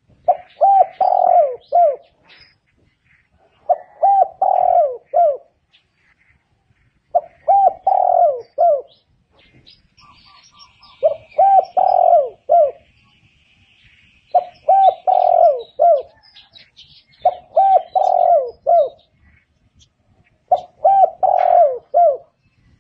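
Spotted dove cooing: a repeated multi-note coo phrase, given seven times about every three and a half seconds.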